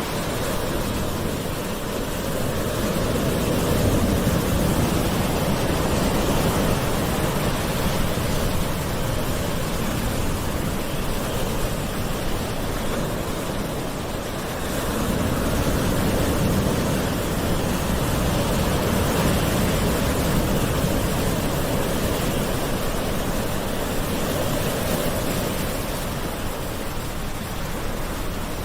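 Gentle ocean waves washing ashore as a continuous rush of surf, swelling twice in slow surges of about ten seconds each.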